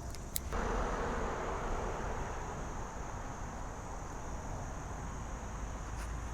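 Steady high-pitched insect trilling over a constant rush of noise like flowing creek water, with a sharp click about half a second in, just before the rushing noise suddenly grows louder and then slowly eases.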